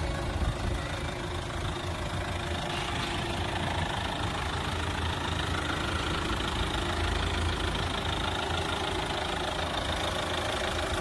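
Chevrolet Captiva (Daewoo Winstorm) four-cylinder turbo-diesel engine idling steadily.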